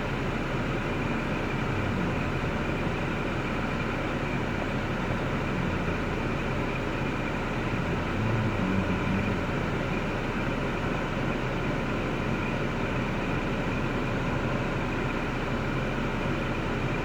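2005 Cadillac STS's 3.6L LY7 V6 engine idling steadily, with a slight swell about halfway through.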